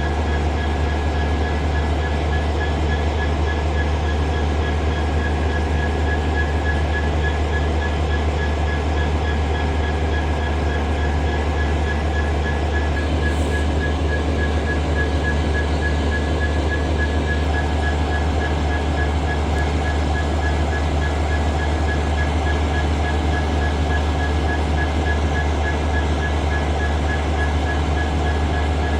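Locomotive standing and running steadily: a deep, even rumble with a constant high whine over it, no wheel noise.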